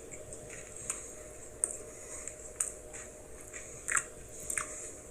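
Someone chewing a mouthful of Kit Kat wafer bar: quiet mouth sounds with about five small crisp crunches spread out.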